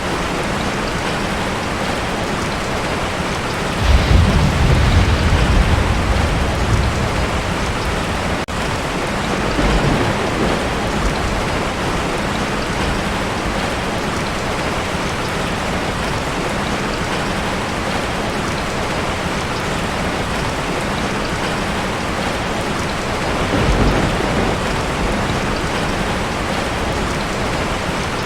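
Heavy rain falling steadily on a tin roof, with a roll of thunder about four seconds in that rumbles for around three seconds, a shorter rumble near ten seconds, and a fainter one near the end.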